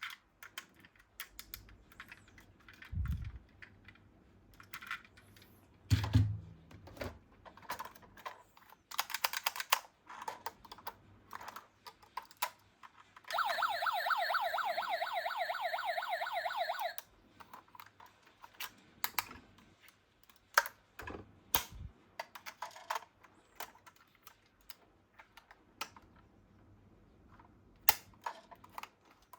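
Small toy police cars clicking and clattering as they are handled and rolled, with a couple of dull thumps early on. About midway an electronic toy siren warbles rapidly for about three and a half seconds, then cuts off.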